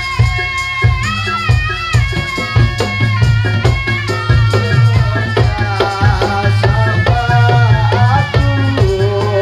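Loud Javanese barongan folk music played live: drums beating a fast, steady rhythm under a held, sliding melody line and a steady low bass.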